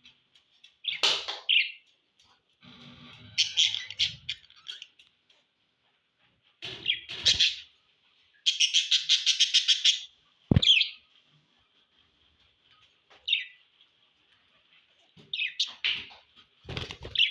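Pet budgerigars chirping in short separate bursts, with a fast run of about a dozen even chirps in the middle. A single sharp click follows just after that run.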